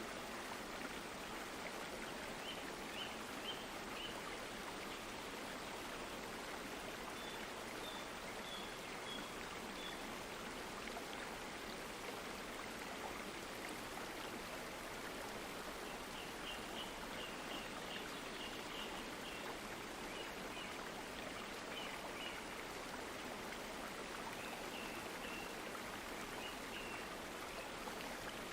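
Stream water flowing and babbling steadily. Faint runs of short high chirps come through over it several times.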